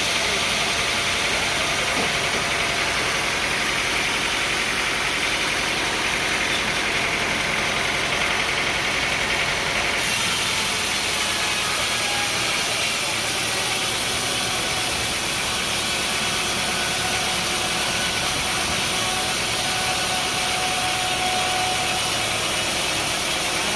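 An engine running steadily, with a sudden change in its sound about ten seconds in.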